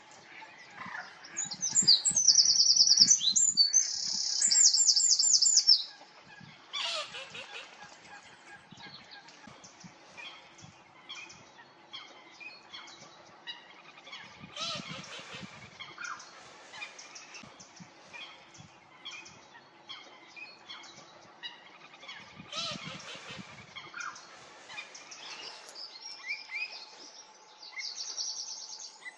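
Songbirds singing and calling: a loud, high, rapid trill starts about a second and a half in and lasts some four seconds. Scattered quieter chirps follow, with another high trill near the end.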